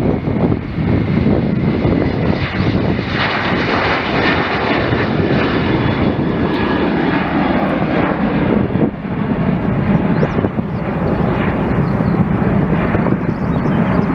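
Loud, steady engine noise with a rushing roar and a faint high whine.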